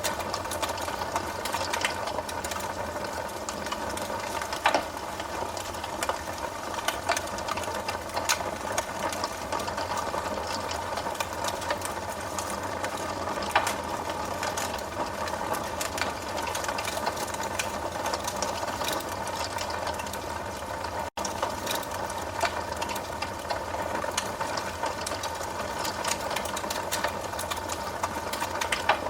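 Wood fire crackling steadily, with many small rapid crackles and a few louder pops. The sound cuts out for an instant about two-thirds of the way through.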